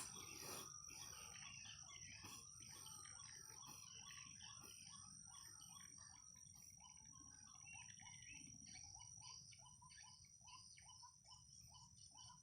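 Faint white-breasted waterhen lure call, a short note repeated about twice a second, played to draw the birds in. A steady high insect buzz runs behind it.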